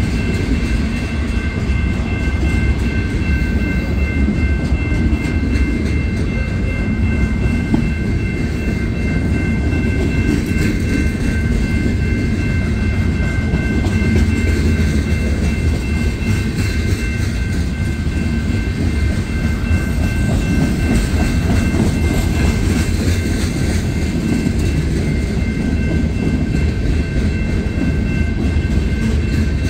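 Freight cars of a passing mixed freight train rolling by close at hand: a steady, dense rumble of steel wheels on rail. A thin, steady high whine sits above the rumble.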